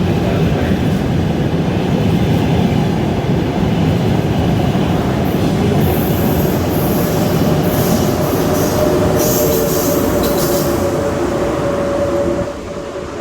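High-speed electric train coming in along the platform with a loud, steady rumble. From about halfway a two-tone whine builds, with bursts of high hiss, and the noise drops suddenly near the end.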